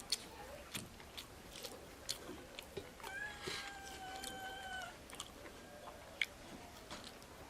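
Close-miked mouth sounds of a person eating, with sharp smacks and clicks throughout. About three seconds in, a steady drawn-out pitched call from something else lasts nearly two seconds.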